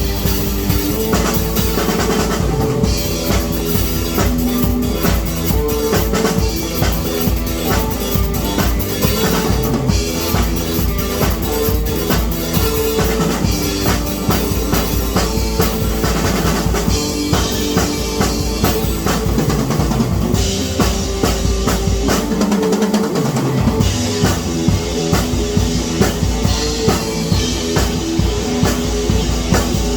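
Rock music driven by a drum kit, with bass drum and snare keeping a steady beat under sustained pitched notes; the low bass drops out briefly about two thirds of the way through.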